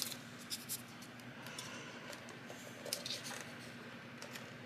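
Paper strip being accordion-folded and creased by hand: soft rustles and a few crisp crinkles over a faint steady hum.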